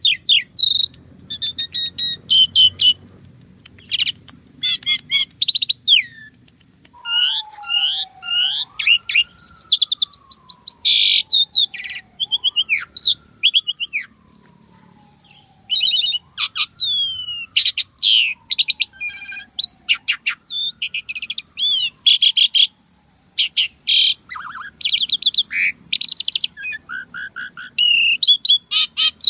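Asian pied myna (jalak suren) singing without pause: a fast, varied stream of whistles, chatters and trills. Through the middle runs a lower whistle that slides down and swoops back up, about four times in a row.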